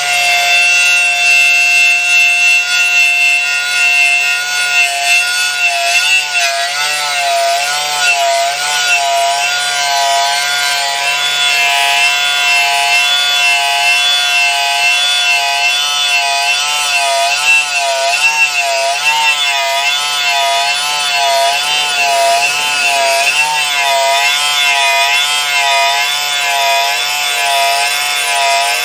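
A power tool with a rust- and paint-stripping wheel grinding on the metal of a van's front bumper. It runs continuously with a high whine whose pitch wavers up and down as the wheel is pressed on and eased off, over a steady grinding hiss.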